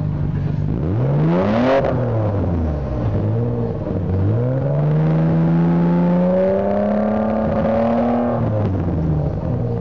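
Nissan Skyline GT-R R34 Nismo V-Spec's twin-turbo RB26DETT inline-six revved through its exhaust: a quick blip about a second in, then a slower, longer rev that climbs and is held before falling back to idle near the end.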